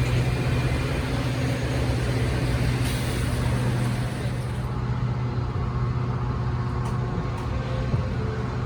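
Diesel train engine running with a steady low hum over a rumble; the higher hiss drops away about halfway through.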